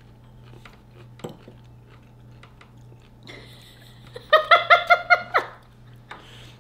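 Bites and chewing of a homemade red chili dill pickle, faint and clicky. About four seconds in comes a rapid run of short, high-pitched squeals lasting about a second, a reaction to the chili heat.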